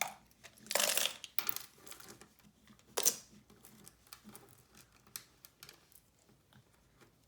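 Hands handling paper and small hard craft pieces on a table: short rustles and light clicks, the loudest about a second in and again near three seconds, then a few faint taps.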